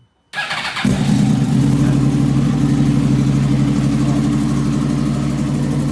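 2014 Yamaha R1 inline-four, with an aftermarket Toce exhaust and cat delete, cold-starting: the new starter cranks for about half a second, then the engine catches on the first try and settles into a steady idle. The quick start shows the replaced starter has cured the bike's cold-start problem.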